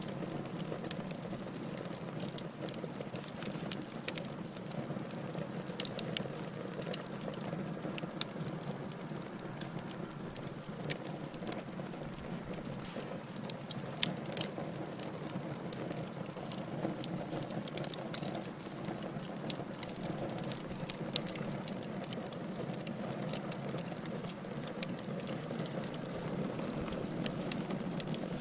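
Wood fire burning in a fireplace: frequent small sharp crackles and pops, scattered irregularly over a steady low rush of the flames.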